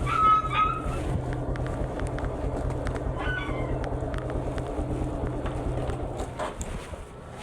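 A vehicle engine running steadily with a low hum. Short high-pitched animal calls cut in at the start and again around three seconds in.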